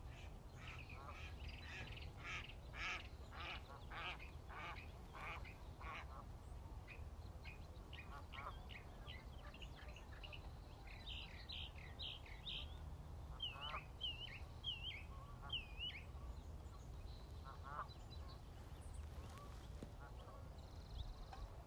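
Birds calling: a dense run of repeated calls in the first six seconds, then scattered short calls and a few brief falling calls around the middle, over a faint low rumble.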